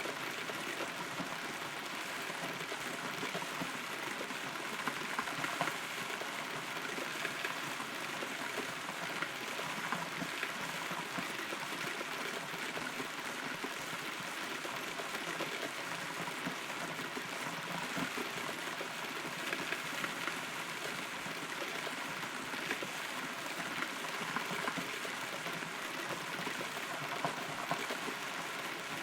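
Steady rain heard from inside a hollow rotten tree, a constant hiss with many small drops ticking on the wood.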